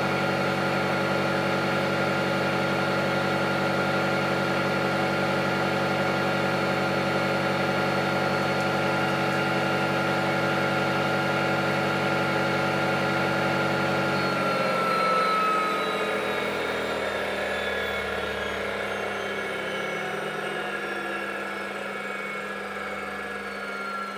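Samsung washing machine spinning its drum at high speed with a steady motor whine. About 14 seconds in, the spin ends and the motor and drum wind down, the whine falling in pitch and the sound slowly fading.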